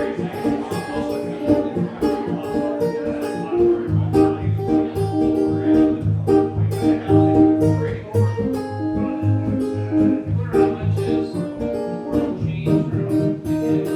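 Acoustic guitar playing an instrumental break between verses of a folk song, with steady, evenly spaced picked strokes and no singing.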